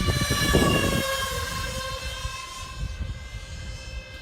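Twin 64 mm electric ducted fans of an RC SR-71 model jet whining in flight, loudest about half a second in, then falling slightly in pitch and settling to a steady whine. Wind buffets the microphone in the first second.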